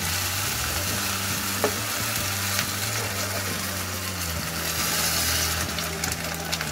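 Onion-tomato masala sizzling in oil in a metal kadhai as a spoon stirs it, with a few light ticks of the spoon. Near the end, boiled peas and potatoes in their cooking water are poured in, splashing into the pan.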